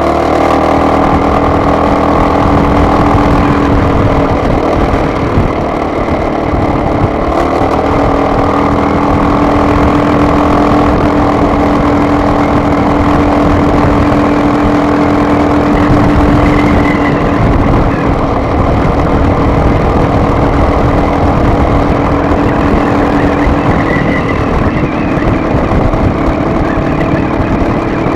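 Car engine and road noise while driving, a loud, steady drone with a constant engine hum.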